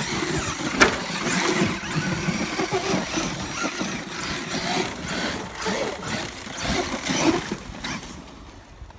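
Losi LST XXL2-E electric 1/8 monster truck on a 6S battery at full throttle, its motor and drivetrain whining in surges as the tyres churn loose dirt, with a sharp crack about a second in.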